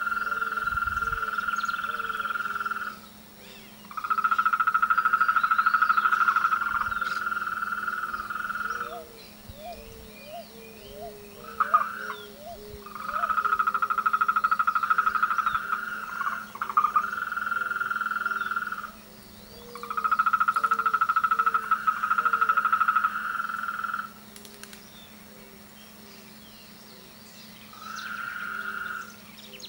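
Chorus of frogs calling in mating season: long, fast high-pitched trills lasting several seconds each, broken by short pauses, over a lower short note repeated about twice a second by other frogs. A faint steady low hum runs underneath.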